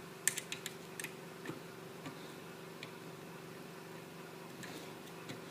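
Faint scattered clicks and ticks of a screwdriver working on a printer's plastic housing, mostly in the first second and a half and again near the end, over a faint steady hum.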